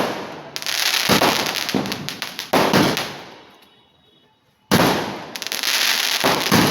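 Multi-shot fireworks cake firing: a quick run of loud shots, each dying away, a gap of about a second, then another volley.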